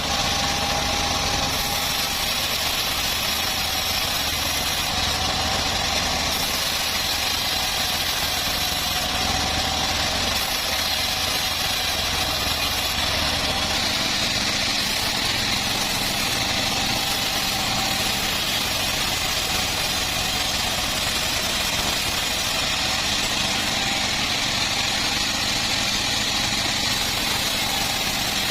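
Engine of a homemade bandsaw sawmill running steadily, its low hum shifting slightly about halfway through.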